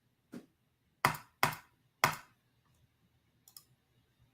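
Five short, sharp clicks, the three loudest close together in the middle.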